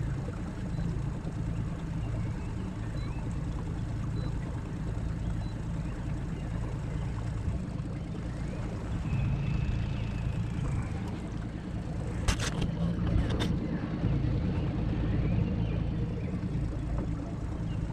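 Boat motor running steadily with a low rumble, with two sharp knocks about twelve and thirteen and a half seconds in.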